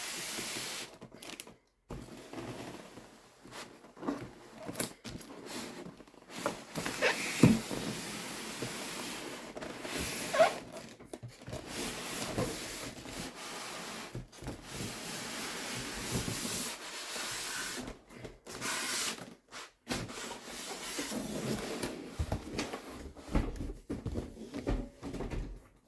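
Large cardboard box and its packaging scraping, rubbing and rustling as the contents are pulled out, with a few sharp knocks along the way.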